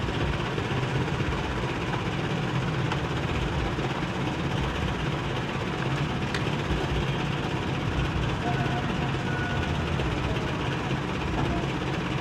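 Steady low rumble of a running vehicle engine, with indistinct voices.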